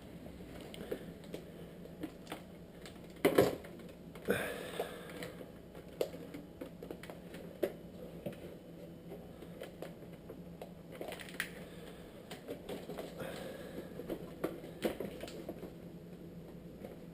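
Irregular plastic clicks and creaks as an oven-heated car headlight's lens is worked loose from its housing, with a louder crack about three seconds in and another a second later.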